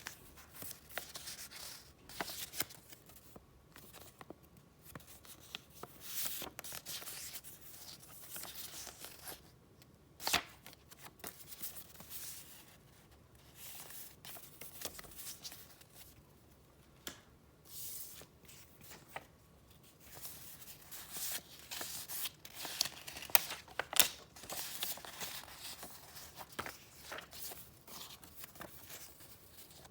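Paper and paper craft items being handled close up: irregular rustling and crinkling, with a few sharp taps or snaps, the loudest about ten seconds in and again around twenty-four seconds.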